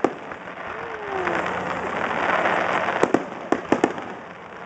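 Fireworks display: sharp bangs of bursting fireworks, one at the start and a quick cluster of about six around three seconds in, over a steady dense hiss and crackle.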